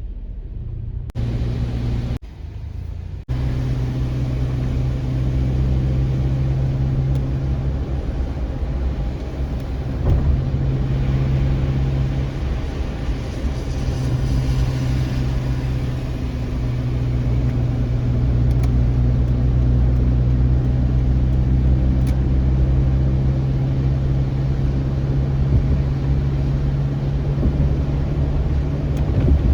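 A car driving, with a steady engine and road hum. The sound drops out briefly twice in the first few seconds.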